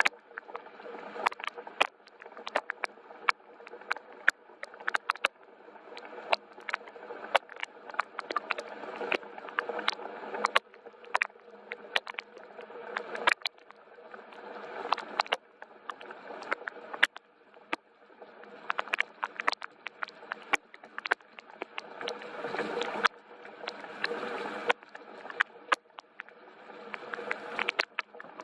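Gentle rain: single drops tapping sharply and irregularly, several a second, over a soft hiss of rainfall that swells and eases every few seconds.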